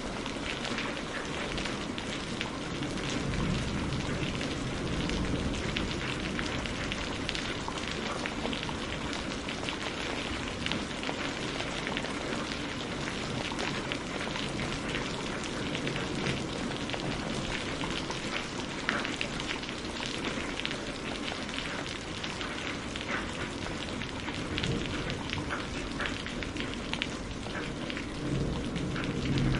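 Steady heavy rain, a dense patter of drops on surfaces, with low thunder rumbling a few seconds in and again near the end.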